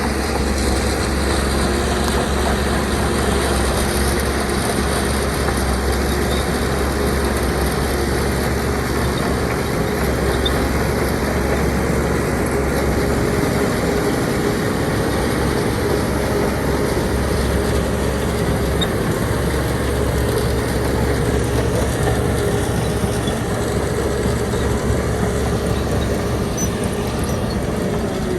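Shantui DH17C2 bulldozer working, its diesel engine running steadily with a constant whine above the low rumble.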